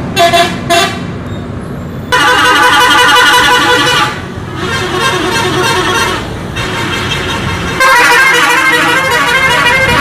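Multi-tone 'telolet' bus horn: two short toots, then long musical blasts of several tones at once, about two seconds each, the last running on.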